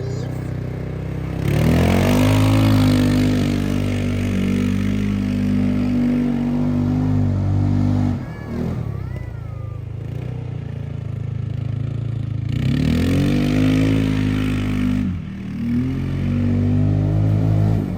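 Off-road buggy engine accelerating three times. Each time the pitch rises, holds steady under throttle for a while, then eases back off.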